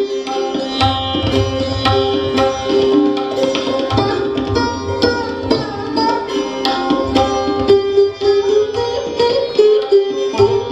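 Hindustani classical instrumental music: sitar and sarod plucked in quick, continuous strokes over tabla accompaniment, with the deep bass drum booming in and out.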